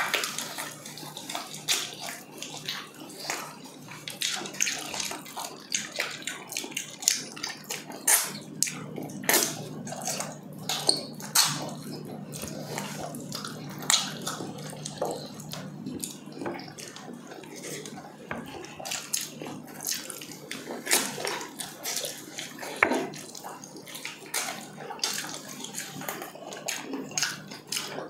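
Close-miked wet chewing and lip smacking from two people eating braised pork hock with their hands: a steady, irregular run of squelches, smacks and small clicks.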